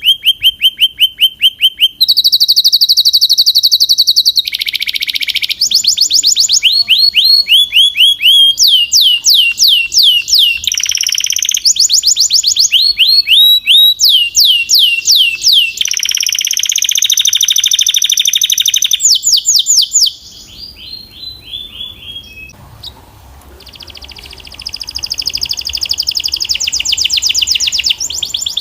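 Canary singing a loud song of rapid tours, each a fast run of one repeated note, many of them sweeping down in pitch, with the tour changing every second or two. About twenty seconds in the song drops much quieter for a few seconds, then a fast, rapid trill builds up again.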